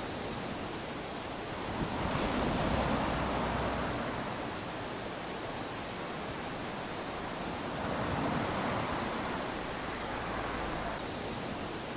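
Small waves lapping onto a sandy shore: a steady wash of surf that swells as a wave comes in about two seconds in and again about eight seconds in.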